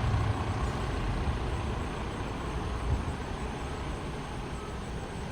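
Fire engine's diesel engine running at low speed as the truck backs in, a steady low rumble that slowly fades.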